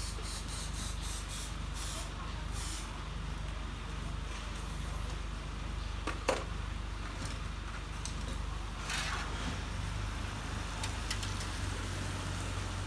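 Short bursts of compressed air hissing from an air hose, inflating a freshly patched motorbike inner tube to check the patch for leaks. A sharp click comes about six seconds in, and there is a steady low hum throughout.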